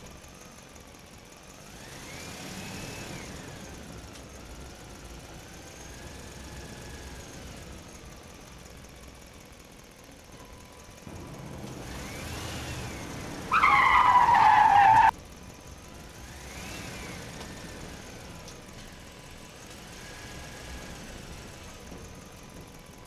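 Vehicle engine running, its pitch rising and falling in several swells, with one loud high wavering screech lasting about a second and a half just past the middle.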